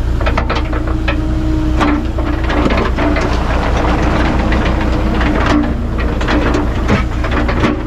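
Excavator's diesel engine running steadily, with irregular metallic clanks and knocks throughout.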